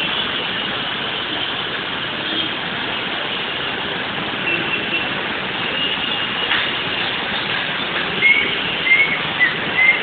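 Steady rush of road traffic on a waterlogged street, with a few short high-pitched toots in the last two seconds.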